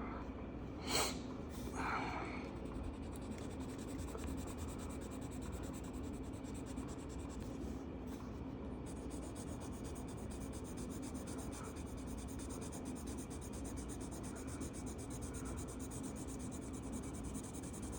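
Marker tip rubbing steadily across paper as a colouring page is filled in, over a faint steady hum, with one sharp click about a second in.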